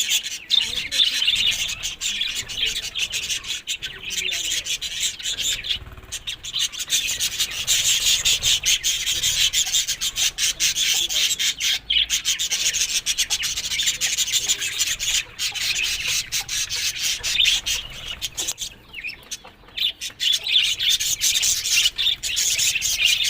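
Budgerigars chattering and warbling steadily, a dense run of high chirps and rapid clicks.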